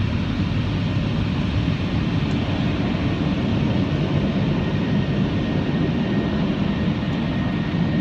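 Automatic car wash dryer blowers running: a steady rush of air with a low rumble.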